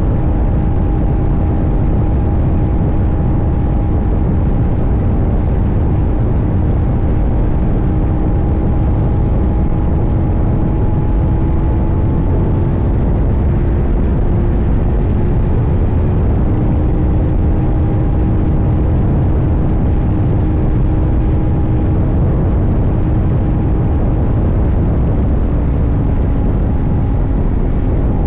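CFMoto 800NK's parallel-twin engine running at a steady cruise under a heavy low rumble of wind and road noise; the engine note drifts slightly up and down.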